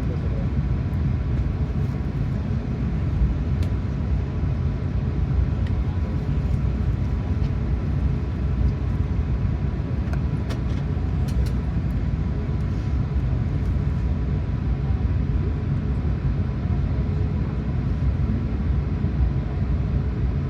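Steady engine and airflow rumble of an Airbus A380-800 with Rolls-Royce Trent 900 engines, heard inside the passenger cabin, with a thin steady whine and a few faint ticks.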